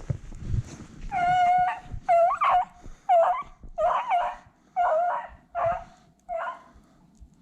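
Beagle baying on the track of a cottontail rabbit: about seven drawn-out howling calls in a row, the first the longest, then the rest shorter and quicker, stopping about six and a half seconds in.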